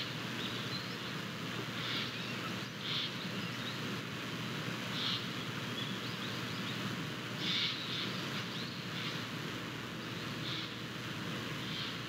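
Steady outdoor rushing background noise with short high-pitched bird calls every couple of seconds.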